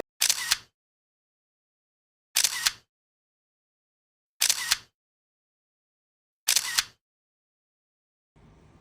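Camera shutter clicks, four of them about two seconds apart, each a quick double click, with dead silence between them.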